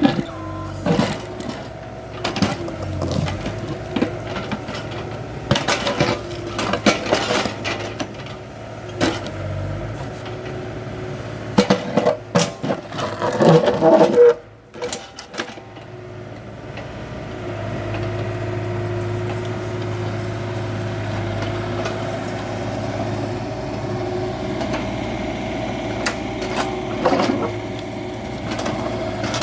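Hydraulic excavator's diesel engine running, with many sharp clanks and knocks of the machine at work through the first half and a loud cluster of them just before the middle. After a brief dip the engine runs louder and steadier for the rest.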